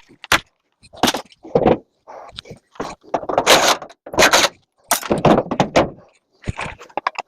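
A string of irregular clanks, rattles and scrapes: metal microwave parts and panels being handled and pulled apart during dismantling for scrap.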